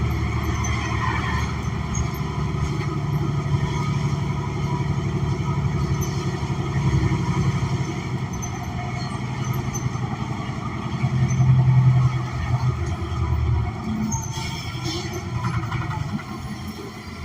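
Inside a New Flyer XN40 city bus, its Cummins Westport ISL G natural-gas engine and Allison transmission drone steadily under way. The engine note swells to its loudest about two-thirds of the way through, then drops off sharply a couple of seconds later as the bus eases off.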